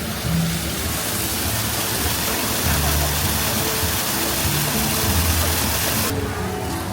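Rushing spray of a water feature's fountain jets over background music with slow, held low notes; the water cuts off abruptly near the end while the music continues.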